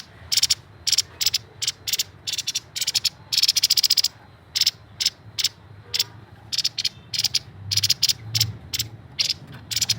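Grey-headed babbler singing in short, rapid, high-pitched chattering trills, each a quick run of clicking notes, repeated two or three times a second with brief gaps.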